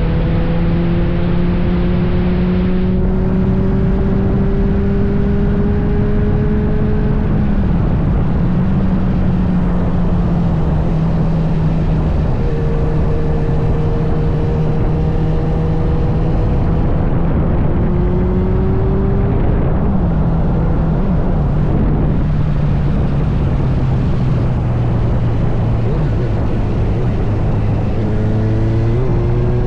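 Kawasaki Z900 inline-four engine running under way, its pitch climbing slowly and dropping about three times, then rising quickly near the end. Heavy wind and road rush covers the engine throughout.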